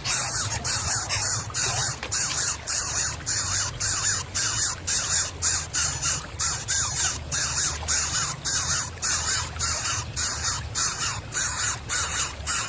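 Coucal chicks calling with harsh, rasping calls repeated about two to three times a second.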